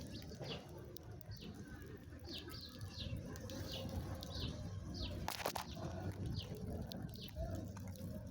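Small birds chirping: short, falling chirps repeated about two a second over a steady low rumble, with a brief sharp noise about five seconds in.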